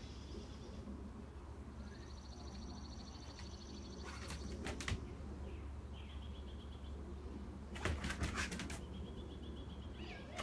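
Faint small-bird trills repeat in the background, several times. Two short runs of light clicking come about four and eight seconds in.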